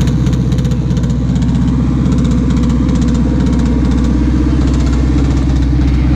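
A car engine idling loudly and steadily close by, its exhaust pulsing rapidly and evenly.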